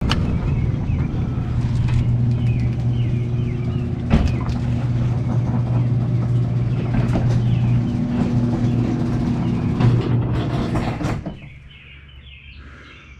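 Motorcycle engine running steadily, then shut off about eleven seconds in, with birds chirping.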